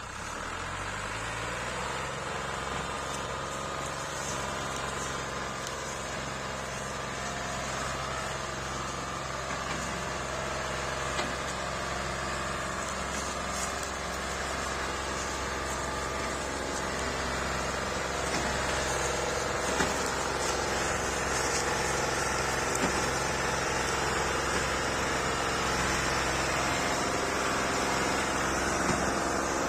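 Old Massey Ferguson tractor's diesel engine catching and spinning up in the first second, then running steadily, getting gradually louder.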